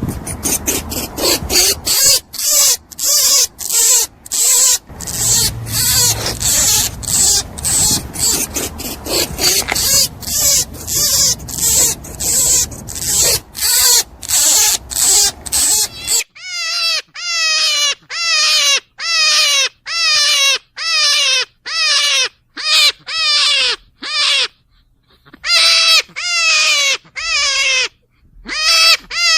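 Rabbit squealing: a rapid run of short, loud, high calls, each falling slightly in pitch, about two a second. About sixteen seconds in, the background hiss drops away and the calls carry on cleaner, with a couple of brief pauses.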